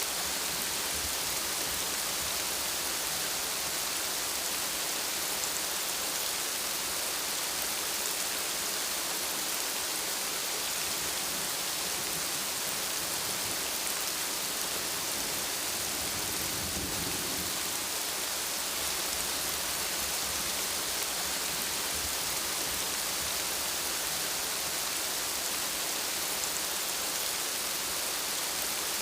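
Steady rain falling on a surface, an even hiss with pattering drops. About halfway through a faint low rumble of distant thunder swells and fades.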